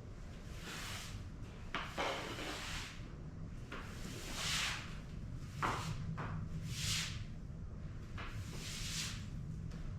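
Repeated short hissing cleaning strokes, one about every one to two seconds, over a low steady hum.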